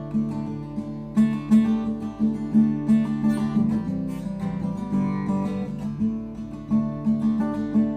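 Acoustic guitar strummed in a steady rhythm, with chords ringing on.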